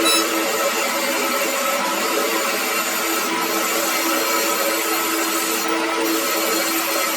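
A workshop power tool or machine running steadily, a continuous noisy whir with a few held tones, plus a brief sharp sound at the very start.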